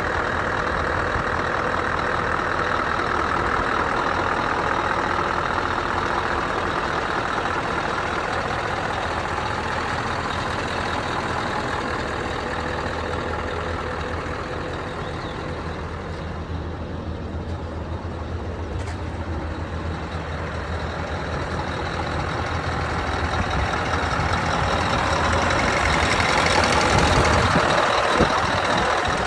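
Scania R560 truck's V8 diesel engine running steadily, dipping slightly in level midway and growing louder near the end.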